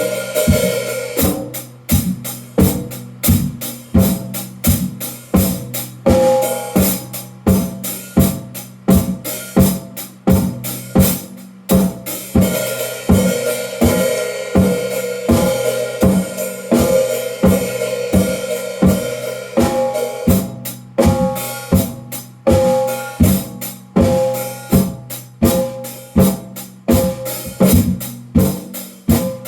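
Drum kit played in a steady, continuous groove: bass drum, snare and ringing toms under cymbals and hi-hat, with several strokes a second.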